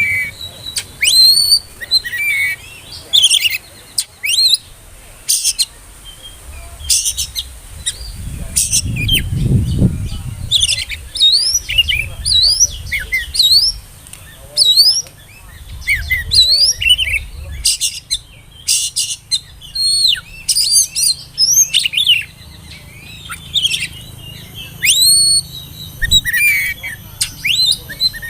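Oriental magpie-robin singing: a rapid run of short, sharp whistled notes, many sweeping quickly upward, with a few brief harsh notes in between.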